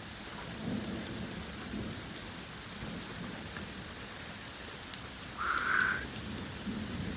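Steady heavy rain with low rumbles of thunder. A brief higher-pitched sound stands out about three-quarters of the way through.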